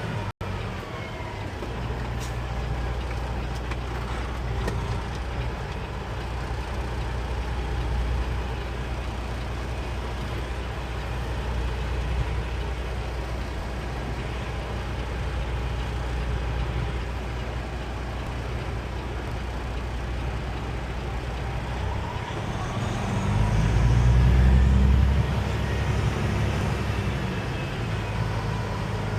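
Peterbilt 389 semi truck's diesel engine running at low speed while the truck is manoeuvred, a steady low drone that swells louder for a couple of seconds about three quarters of the way through.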